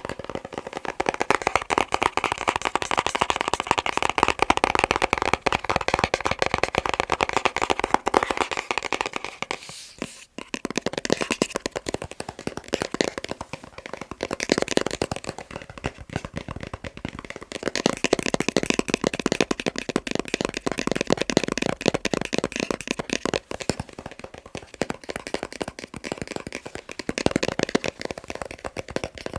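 Fast tapping on boxes: a dense stream of quick taps that breaks off briefly about ten seconds in, then resumes with a different tone.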